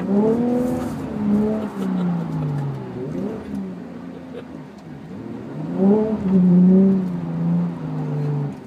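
2014 Chevrolet Camaro RS's 3.6-liter V6 with dual-mode exhaust, heard from inside the cabin, revving hard twice while doing donuts. The note jumps up at the start and sags over about three seconds, then surges again about six seconds in, loudest there, and drops away just before the end.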